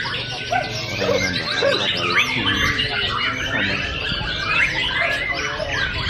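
White-rumped shama (murai batu) singing a rapid, varied stream of whistles, chirps and quick gliding notes, with other contest birds singing over it so the song is dense and unbroken.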